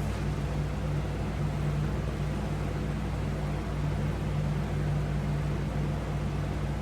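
Steady low electrical hum with an even hiss underneath, unchanging throughout.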